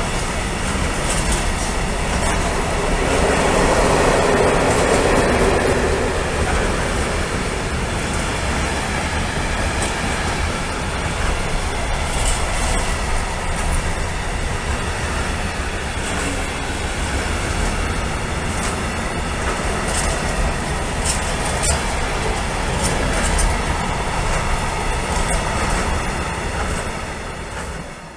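Container wagons of an intermodal freight train rolling past at steady speed: a continuous rumble of wheels on rail, with clicks over the rail joints and some wheel squeal.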